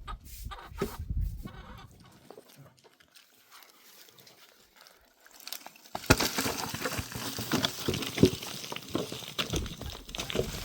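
Goats bleating amid clattering and rustling, which get suddenly louder about six seconds in.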